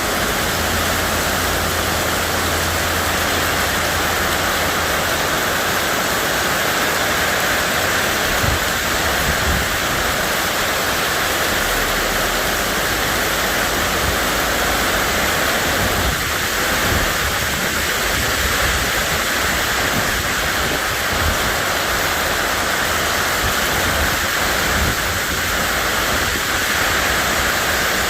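Heavy rain pouring down, a loud, steady hiss that holds even throughout.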